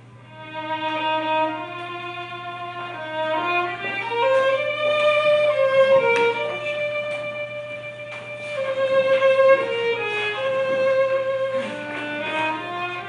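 Solo violin playing a slow melody of long held notes over a steady low hum.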